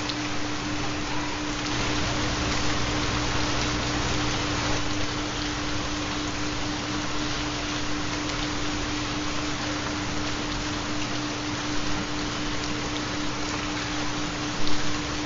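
Steady rain recording with a constant low hum tone underneath, the carrier of a theta binaural beat.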